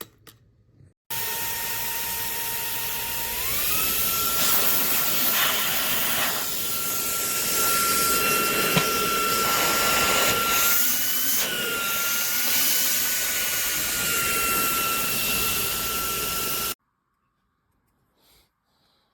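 Fanttik Slim V8 Apex handheld car vacuum's motor running with a steady whine. It starts suddenly, steps up in pitch a few seconds in and holds, then stops abruptly.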